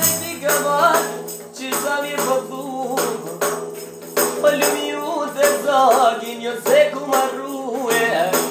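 Albanian folk music: a wavering, ornamented lead melody over a steady held drone, with tambourine-like jingling percussion keeping the beat.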